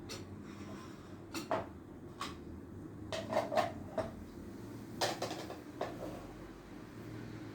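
Kitchenware being handled on a counter: a scatter of light knocks and clinks, with a quick cluster about three seconds in and a few more around five to six seconds, over a steady low hum.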